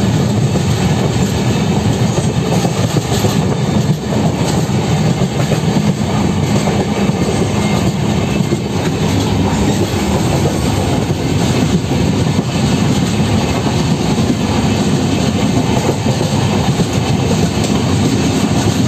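Passenger train running over a river bridge, heard from an open coach door: a steady, loud rumble of wheels on the rails.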